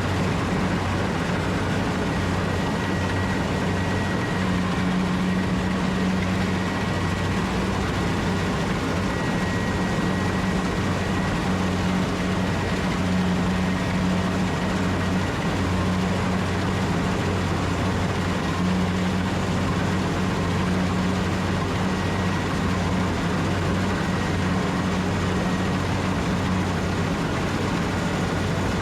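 Rice combine harvester's engine running steadily under load, a constant low hum with a faint high whine.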